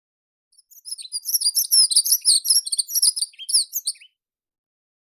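A small meadow songbird singing one rapid, high-pitched twittering phrase of quick, varied notes, about three and a half seconds long.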